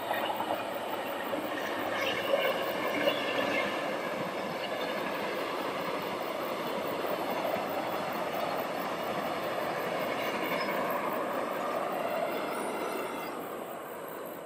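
ITX-Saemaul electric multiple unit passing at speed: a steady rush of wheels on rail that swells as the train arrives and eases a little near the end.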